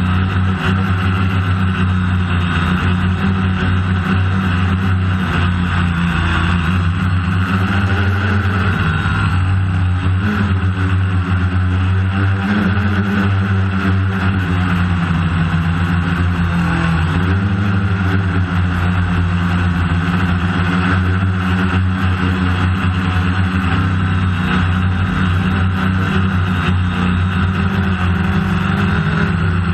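DJI Phantom quadcopter's motors and propellers buzzing steadily in flight, the pitch wavering slightly now and then as the motors adjust.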